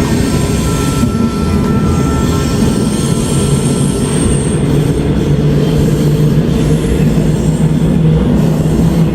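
Seoul Subway Line 2 electric train running steadily on the rails, a loud even rumble with faint high-pitched wheel squeal tones above it.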